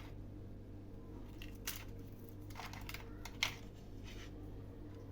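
A few scattered short clicks and crackles, the sharpest about three and a half seconds in, over a steady low electrical hum.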